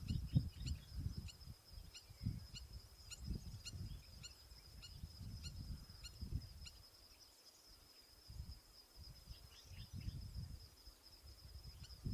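Outdoor wildlife ambience: wind rumbling on the microphone, a steady high-pitched whine, and short high chirps repeating about twice a second that thin out midway.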